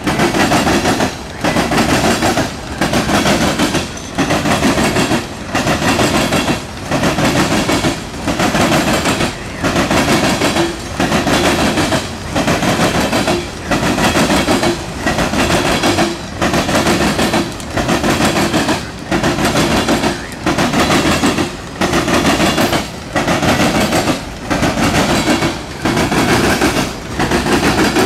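Steel coal hopper cars of a CSX freight train rolling past, their wheels clattering and rumbling on the rails. The clatter rises and dips in a regular rhythm about every second and a third as car after car goes by.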